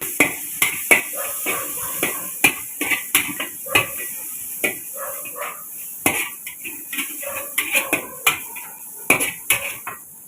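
A metal utensil clattering irregularly against a wok while noodles are stir-fried, over a steady sizzle.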